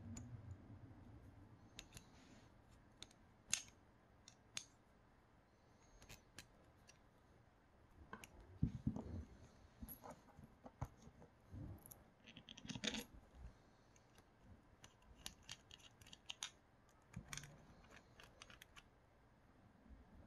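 Faint, scattered clicks and taps of small metal and plastic parts of a Creality Sprite 3D-printer extruder being handled, with a few sharper knocks, the loudest about nine seconds in and again around thirteen seconds.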